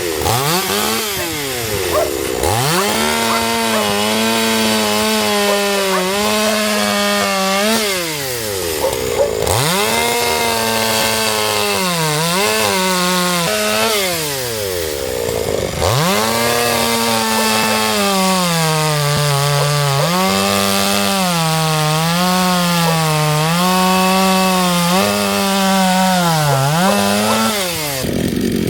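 Chainsaw revving up and cutting through firewood three times. Under load the pitch wavers and dips, and the engine falls back between cuts.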